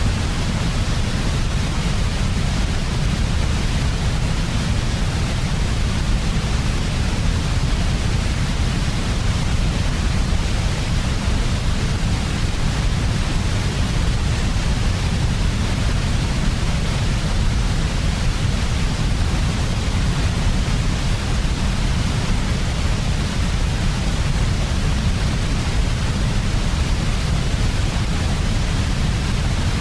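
Steady, unchanging white noise for sleep: a constant hiss with a stronger deep rumble underneath.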